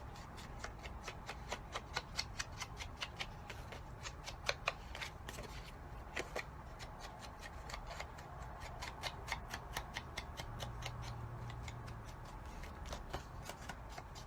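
An ink dabber being tapped lightly and repeatedly against the edge of a paper card: a run of quick, soft taps, several a second, sparser in the second half.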